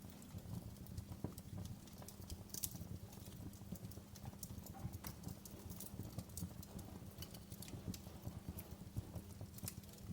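Wood fire crackling in a fireplace: irregular sharp pops and snaps, several a second at uneven spacing, over a low steady rumble of burning.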